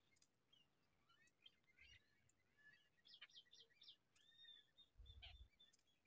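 Faint bird chirps and short calls, with a quick run of high notes about three seconds in. A brief low rumble comes near the end.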